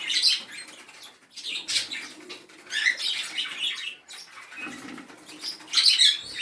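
A cockatiel scrabbling and fluttering about at the entrance of its nest box, in four or five short scratchy rustling bursts.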